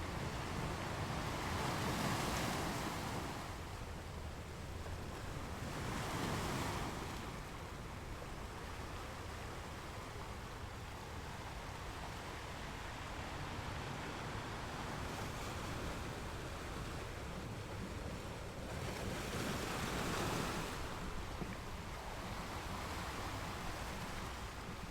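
Ocean waves breaking on a rocky beach over a steady wash of surf. Three bigger waves break and surge, about two seconds in, about six seconds in, and again about twenty seconds in.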